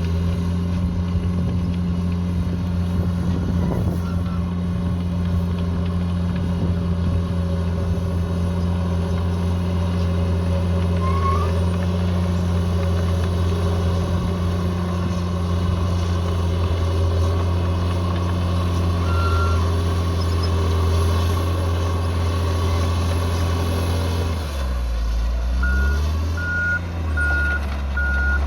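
Heavy diesel bulldozer engine running steadily. Near the end the engine note dips and shifts, and a reversing alarm starts beeping in a steady string of short beeps.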